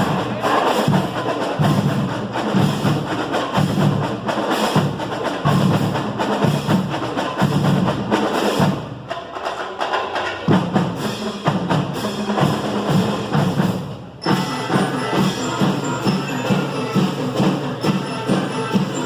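Marching band drumline playing a fast, steady cadence of drums with sharp clicking strokes. It thins out briefly about halfway through, then cuts off for an instant and starts up again about two-thirds of the way in.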